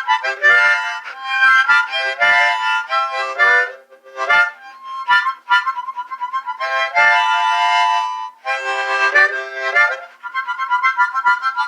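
Harmonica solo: quick runs of notes and short warbles, with fuller held chords about two-thirds of the way through.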